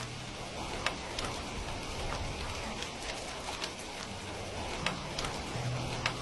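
Steady rain, with scattered sharp pops of a crackling wood fire, about one or two a second.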